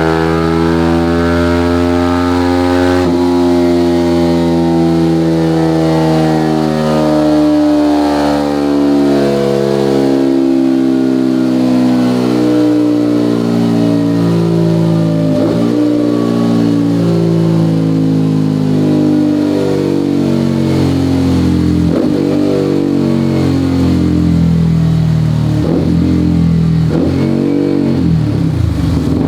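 Motorcycle engine running loud through an EvoX STD aftermarket exhaust with its Easy DB Killer baffle removed. The revs are held high, and the pitch eases down slowly over the whole stretch, with a few short sharp cracks in the second half. Near the end the engine drops lower and sounds rougher.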